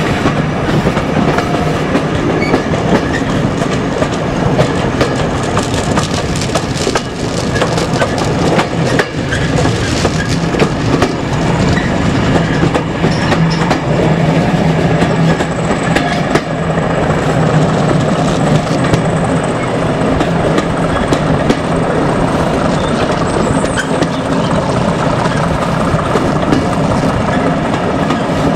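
Moving passenger train heard from an open coach window: wheels clattering over the rail joints under a continuous rush of running noise.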